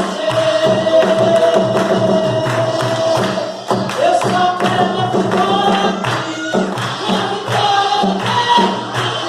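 Lively Pentecostal worship chorus (corinho de fogo): singing with a long held note over a band and a fast, steady percussion beat.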